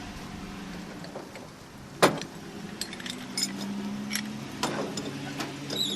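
A sharp knock about two seconds in, followed by scattered light clinks and rattles, over a steady low hum.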